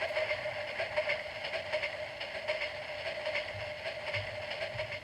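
A toy train's small electric motor and gears running, a steady whine with a faint fast clatter, that stops suddenly at the end.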